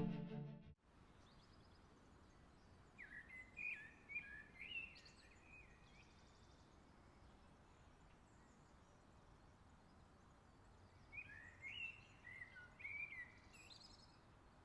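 Background music fading out, then faint birdsong: two short phrases of quick chirping notes several seconds apart, over a quiet outdoor background.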